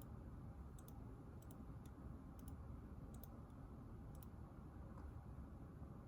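Faint, light clicks, about seven scattered unevenly over six seconds, over a low steady room rumble.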